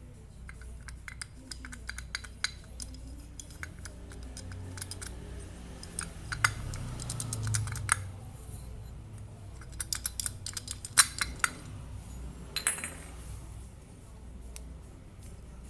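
Small hard parts being handled and set down, giving irregular clicks and clinks in uneven clusters, over a steady low hum.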